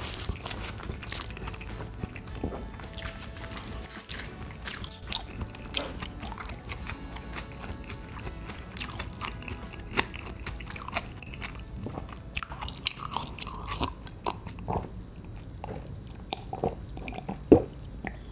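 A person chewing and biting food close to the microphone, with many small, sharp, irregular clicks from the mouth and food.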